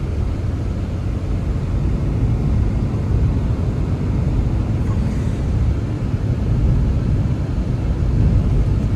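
Blizzard wind making a steady, deep rumble that rises and falls a little.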